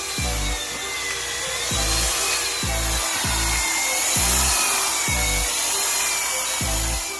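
A power tool running on wood, a steady noise with a whine that wavers slowly up and down, cutting off suddenly near the end, over background music with a steady beat.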